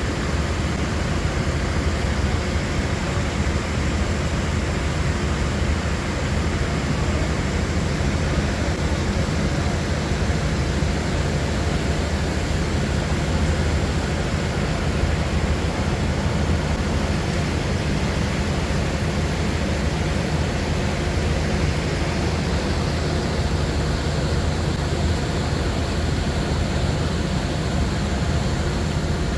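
Steady, loud rushing noise with no breaks, heaviest in the low end.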